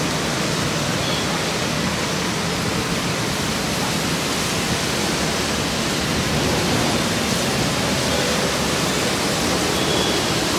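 Steady, even hiss of heavy rain falling on a waterlogged road, with traffic driving through the wet.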